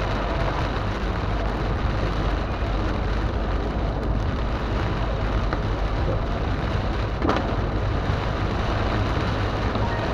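Heavy rain on a moving car, heard inside the cabin as a steady wash of rain and road noise, with one brief knock about seven seconds in.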